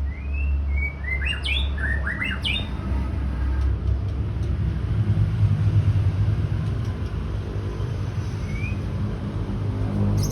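A white-rumped shama gives a quick run of short rising whistles in the first few seconds, then one more short whistle near the end. A steady low rumble runs underneath and is louder than the bird.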